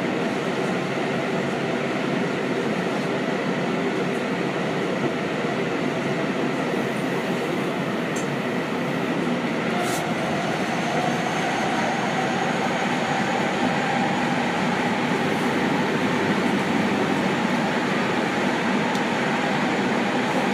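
Seibu 6000 series electric train running through a tunnel, heard from inside the car as a steady rumble of wheels and running gear. From about halfway a faint whine from the Hitachi GTO-VVVF traction equipment slowly rises in pitch as the train picks up speed.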